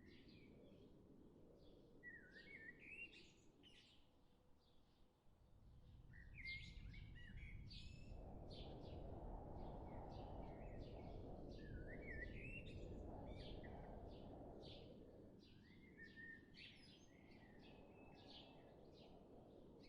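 Faint birdsong: short high chirps with phrases of rising chirps every few seconds, over a low background rumble that swells in the middle.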